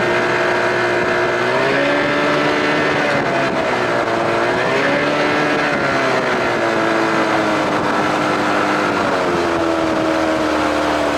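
2000 Johnson 25 hp outboard motor running steadily under way. Its pitch sags and comes back up a few times, at about two, five and ten seconds in.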